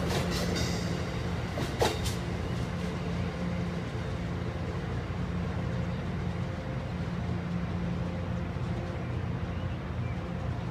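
Amtrak Northeast Regional passenger train rolling away over curving track: a steady low rumble, with a few sharp clicks in the first two seconds, the loudest just before two seconds in.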